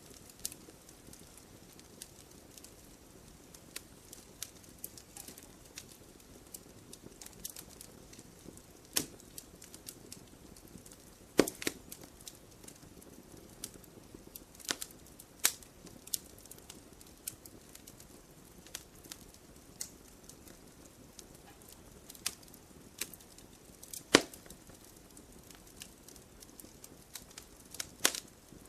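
Wood fire in a fireplace crackling: a soft steady hiss under irregular sharp pops and snaps, with a few louder pops scattered through.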